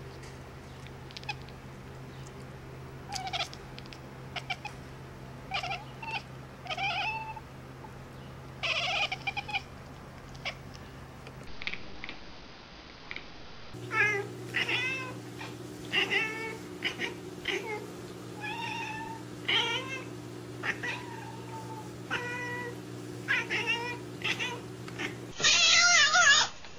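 Domestic cats meowing, one after another: a string of short meows rising and falling in pitch, then many short meows in quick succession, and near the end a kitten mewing loudly.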